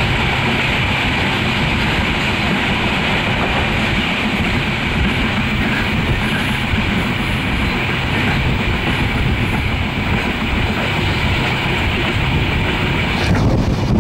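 Passenger train of PT INKA-built coaches running on the line, heard from aboard: a steady rumble and hiss of wheels on rail. Near the end the high hiss falls away and the low rumble gets a little louder.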